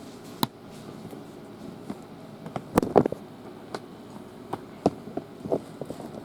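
Scattered sharp clicks and knocks, with a quick cluster about three seconds in, over a steady low hum: handling noise from someone fiddling with recording gear.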